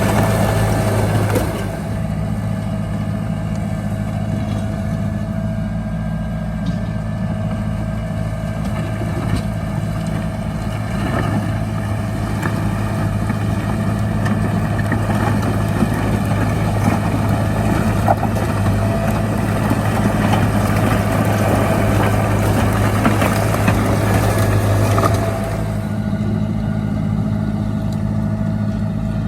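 Heavy diesel engine of an earthmoving machine running steadily, with a thin steady whine above the deep engine note. The sound eases slightly about two seconds in and again near the end.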